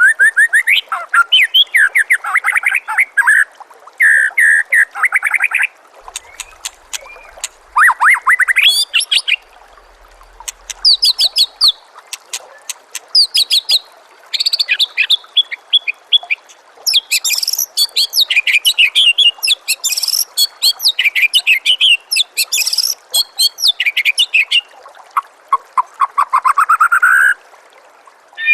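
White-rumped shama (murai batu) singing: loud, varied phrases of rapid repeated notes and trills with short pauses between them, including one rising run of notes near the end.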